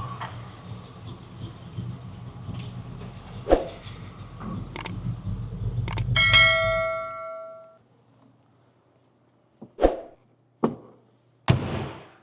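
Porsche 928 V8 idling rough with a misfire, which the mechanic puts down to stuck fuel injectors. About six seconds in, a single metallic clang rings out and fades over about a second, and the engine noise stops soon after. Three short, dull knocks follow in the quiet near the end.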